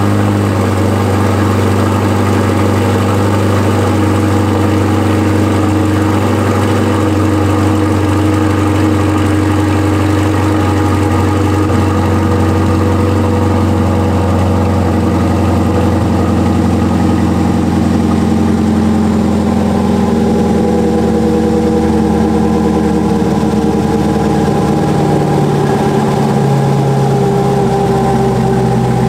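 A Corvette C8's 6.2-litre V8 idles after a cold start through a Paragon Performance track exhaust, with a steady, even note. In the last third the pitch eases slightly lower as the fast cold idle settles.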